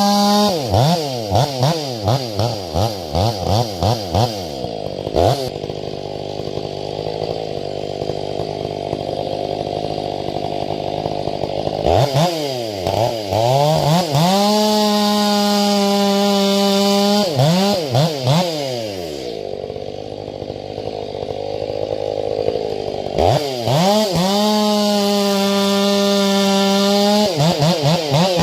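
Ported Stihl 500i fuel-injected two-stroke chainsaw bucking grand fir. The saw is blipped in quick throttle pulses, then pulls down to a lower steady pitch under load in the cut. It screams back up to full revs as it clears, then goes into a second cut about two-thirds through and revs out again near the end.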